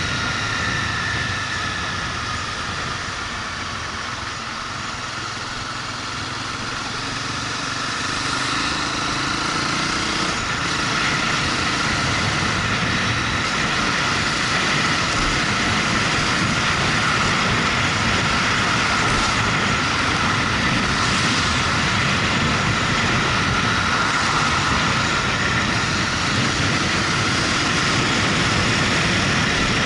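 Motorcycle underway: engine running under road and wind noise. It eases off and then picks up again about ten seconds in.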